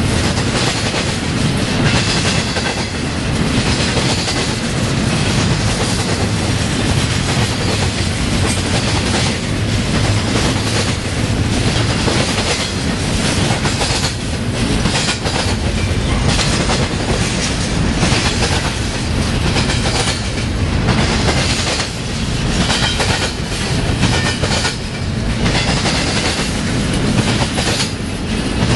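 Empty intermodal freight cars ('bare tables') rolling past, their steel wheels clattering over the rail in a steady clickety-clack over a continuous rumble.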